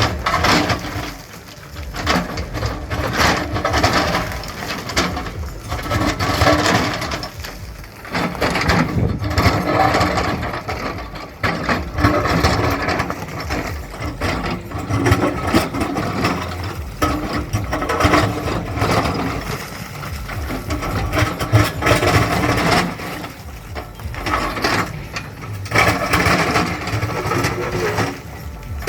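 JCB 3DX Plus backhoe loader digging hard ground: its 74 hp diesel engine runs under load, with irregular knocks, rattling and scraping from the bucket and the digging.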